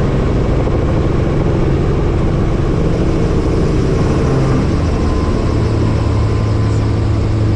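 Helicopter engine and rotor noise heard from aboard, a loud steady drone with a low hum that drops slightly in pitch about five and a half seconds in.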